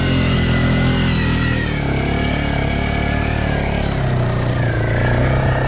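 Off-road vehicle engines running steadily, the engine note shifting lower about two seconds in and rising again about four seconds in.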